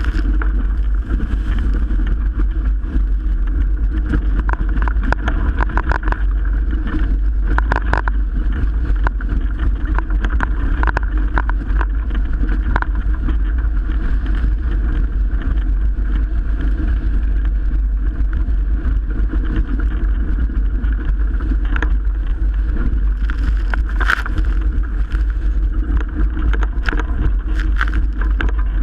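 Strong wind rumbling on the microphone and water rushing past the hull of a Melges 24 sailboat sailing fast in 30-plus-knot winds, with scattered sharp slaps throughout.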